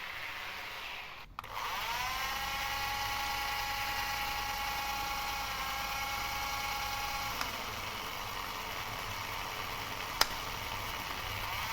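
Small electric motor spinning up with a rising whine, then running at a steady high pitch, with a sharp click about ten seconds in.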